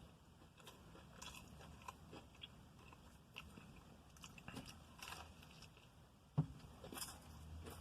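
A person biting into and chewing a crispy fried chicken sandwich, with faint scattered crunches and mouth sounds and one sharper knock about six and a half seconds in.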